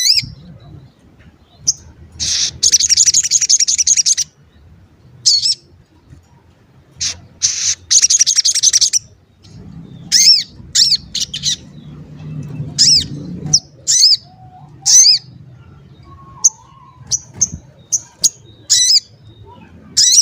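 Sogon bird calling in sharp, high 'cuit cuit' chirps, repeated many times, broken by two rapid rattling trills, about two to four seconds in and again about eight seconds in. It is the agitated, provoking song used as a lure to set other sogon birds singing.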